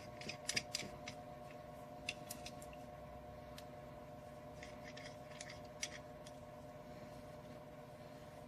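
Faint scattered clicks and light metallic taps from handling the tubing cutter and the freshly cut copper tubing, over a steady low hum.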